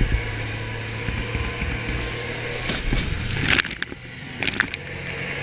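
Boat engine running steadily with wind and water noise, with two short hisses about three and a half seconds in and again a second later.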